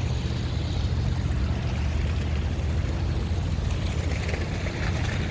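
Wind buffeting the microphone outdoors in a snowstorm: a steady low rumble.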